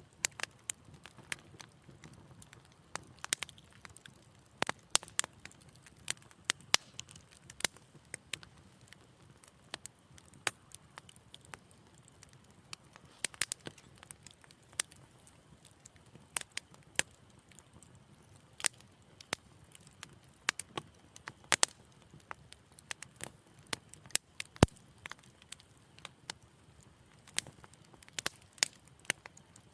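Wood fire crackling in a fireplace: irregular sharp pops and snaps, several a second at times, over a faint low rumble of the flames.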